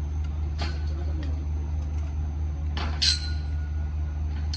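A steady low machine hum, with sharp metal clinks on top. The loudest clink comes about three seconds in and rings on for over a second, like a steel tool or part struck or dropped on metal.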